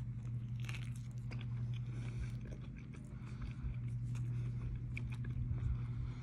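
A person biting into a soft chicken tortilla wrap and chewing it, with scattered small mouth clicks. A steady low hum runs underneath.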